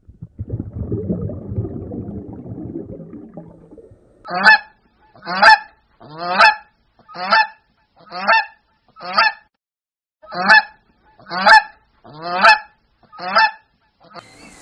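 A goose honking ten times, one loud call about every second, each honk dropping slightly in pitch. It is preceded by a low, fading grunting rumble in the first few seconds.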